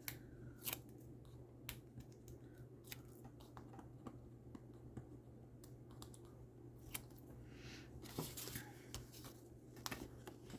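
Faint, irregular light clicks and taps of paper and card pieces being handled and stuck down while a card is assembled, over a low steady hum.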